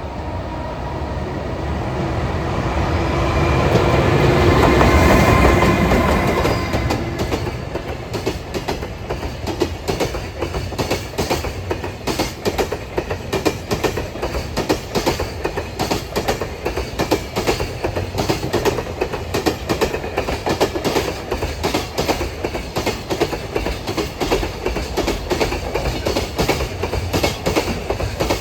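A freight train passing close by on the Tohoku Main Line. The locomotive swells to its loudest about five seconds in with a whine, then a long rake of container wagons follows, its wheels clicking over the rail joints in a rapid, even clatter.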